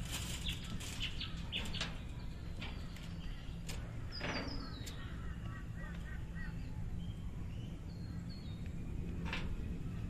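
Wild birds calling in the bush: scattered short high chirps and falling notes, with a quick run of repeated notes in the middle. A steady low rumble runs underneath.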